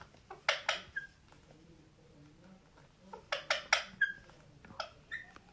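A male Indian ringneck parakeet making short, sharp clicks and chirps during his courtship dance. They come in three quick clusters of two to four.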